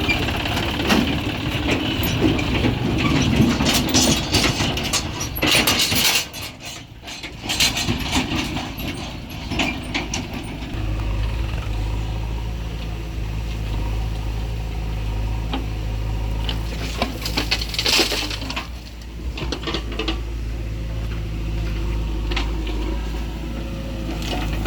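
Heavy diesel machinery working as a backhoe loader loads earth into a tractor trolley: a low engine drone with several bursts of clattering and rattling as soil and stones hit metal. From about halfway the engine noise settles into a steady low idle.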